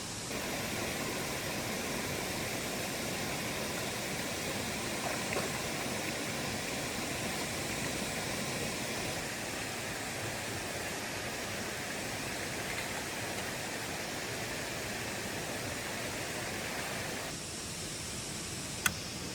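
Steady rushing noise that drops to a lower level about seventeen seconds in, with one sharp click near the end.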